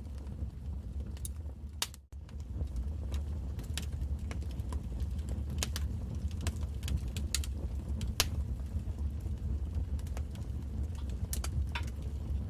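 Wood fire crackling in a fireplace: a steady low rumble of flames with irregular sharp pops and snaps, the loudest about eight seconds in. The sound cuts out for an instant about two seconds in.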